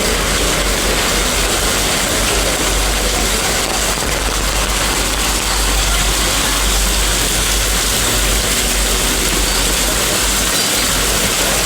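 A vehicle in motion: a steady low rumble under an even hiss.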